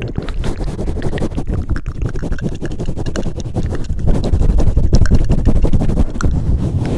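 Hands pumping and swirling over a microphone for ASMR: a continuous muffled low rumble with dense fine crackling, growing a little louder about halfway through.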